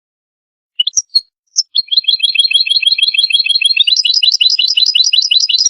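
European goldfinch singing. After a brief silence come a few sharp call notes, then a fast twittering trill of rapid chirps, about eight to ten a second.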